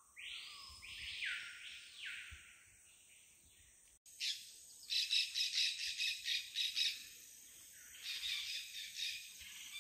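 Forest birds calling: a few swooping whistled notes in the first couple of seconds, then, after a short gap, a rapid pulsing chatter that comes in two spells.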